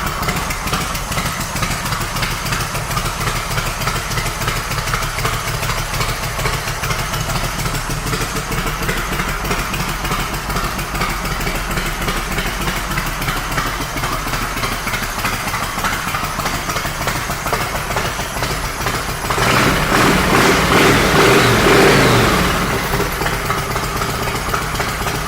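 2005 Yamaha Road Star Silverado's air-cooled V-twin idling steadily through aftermarket drag pipes. About three-quarters of the way through it is revved up for a few seconds, then drops back to idle.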